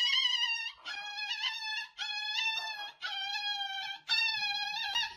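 Toy poodle wailing in a run of five long, high-pitched cries, each about a second long with short breaks between, protesting as its nails are clipped.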